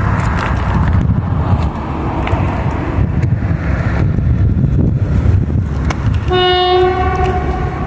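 Train running past with a steady low rumble and scattered clicks. About six seconds in, the locomotive's horn sounds once, a single blast of about a second and a half.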